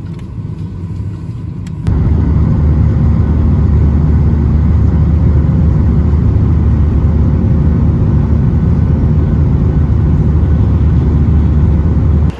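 Steady low rumble of a car on the move, getting suddenly louder about two seconds in and holding level until it stops.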